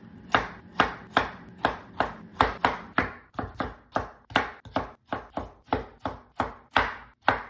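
Knife chopping food on a cutting board in a steady run of about twenty strokes, roughly three a second.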